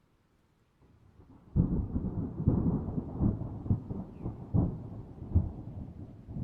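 Thunder: a faint swell about a second in breaks into a sudden loud clap, then rolls on as a deep rumble that rises and falls in uneven surges.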